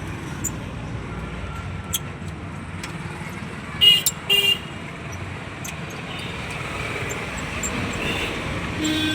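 A vehicle horn honking twice in quick short blasts about four seconds in, over a steady low rumble of road traffic.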